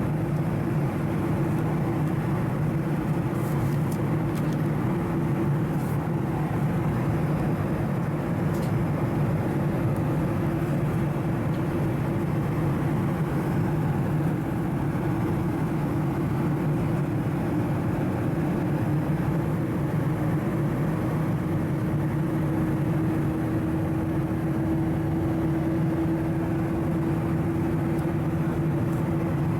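Cabin noise of a Boeing 737-700 airliner: a steady low drone of engine and airflow, with a constant deep hum underneath.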